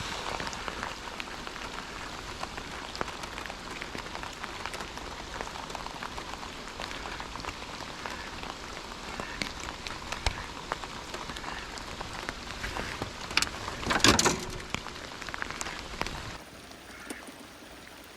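Steady rain falling on surfaces around, a constant hiss full of small drop ticks. About fourteen seconds in comes a brief burst of louder knocks, and a couple of seconds before the end the rain sound turns quieter.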